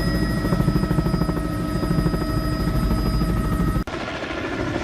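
Helicopter cabin noise: a steady engine and rotor drone with a fast, even rotor beat. About four seconds in it cuts abruptly to a thinner helicopter sound with much less low rumble.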